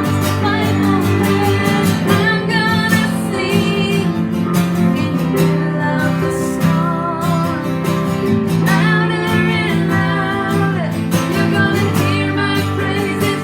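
A song with a singing voice over strummed acoustic guitar, the voice coming in in long held, wavering phrases twice.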